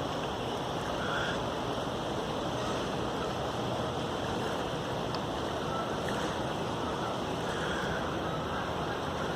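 Steady, even rushing noise, with a few faint short high tones about a second in and again near the end.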